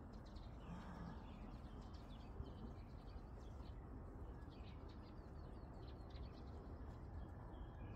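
Small birds chirping faintly and intermittently, over a steady low rumble.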